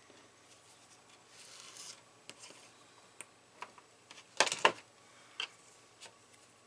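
Small clicks and taps from handling soldering tools and thin wire at a workbench, with a louder pair of sharp clicks about four and a half seconds in.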